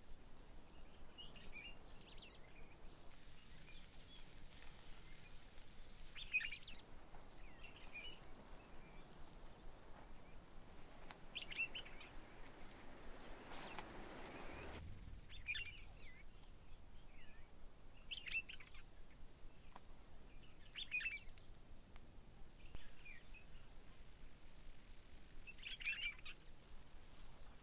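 Faint outdoor ambience with birds calling: short chirps every few seconds. A soft rush of noise builds through the middle and stops abruptly about fifteen seconds in.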